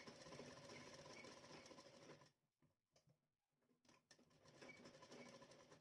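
Sewing machine stitching, faint, in two short runs with a pause of about two seconds between them.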